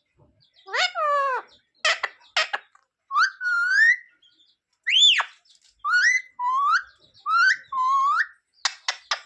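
Pet green parrot giving a series of about ten whistled calls, each sweeping up or down in pitch, with a few quick sharp chirps near the end.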